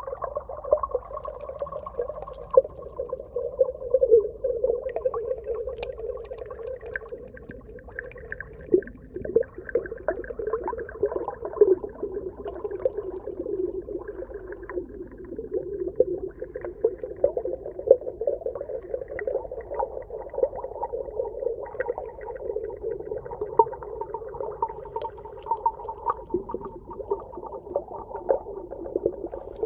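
Underwater ambience: a steady, dense crackle of small clicks and bubbling in a mid-pitched band, with fainter higher tones above it.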